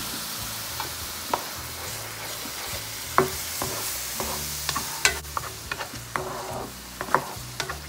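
Tomato purée and onion-ginger-garlic paste sizzling in hot oil in a frying pan, while a spatula stirs and scrapes the masala, making short clicks against the pan. The clicks come more often from about three seconds in.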